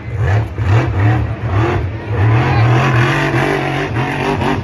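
Monster truck engine revving hard, its pitch surging up and down again and again as the throttle is worked.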